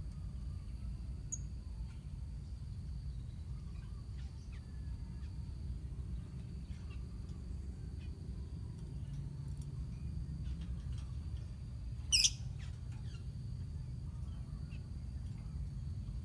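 Lovebirds in a colony: faint scattered chirps and one short, shrill call about twelve seconds in, over a steady low hum and a faint steady high tone.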